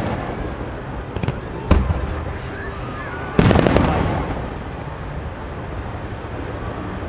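Aerial firework shells bursting overhead: a sharp bang about one and a half seconds in, then a quick cluster of bangs at about the middle, each trailing off in a rolling rumble.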